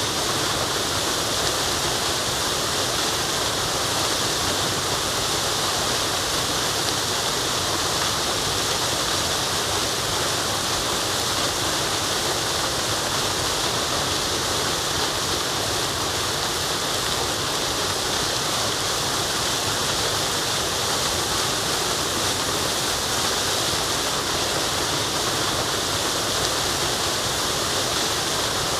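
Waterfall in a forest, water falling in a steady, even rush with a hissy top.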